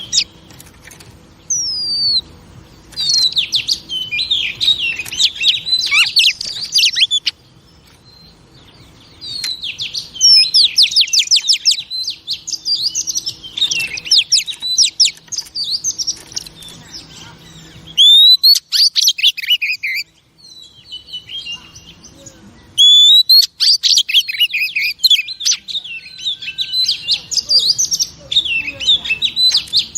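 Female Oriental magpie-robin singing in rapid runs of high chirps, trills and whistles, in several phrases separated by short pauses.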